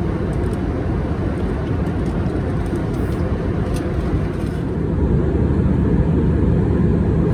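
Steady in-flight cabin noise inside an Airbus A319: the even rush of engines and airflow, growing a little louder about five seconds in.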